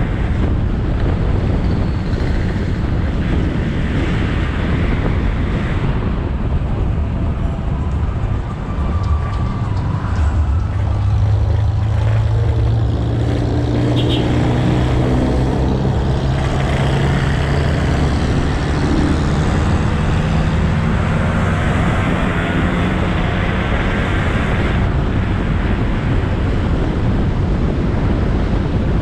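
Motorcycle riding on the road, heard from the rider's point of view: a steady rush of wind on the camera microphone and road noise over the engine. About ten seconds in, a low engine hum comes up, its pitch gliding as the bike changes speed.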